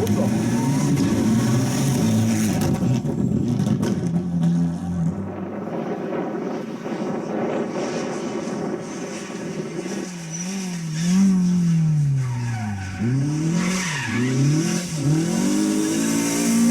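Rally car engine revving hard, its pitch climbing and dropping repeatedly with throttle and gear changes, with tyres skidding on the stage surface.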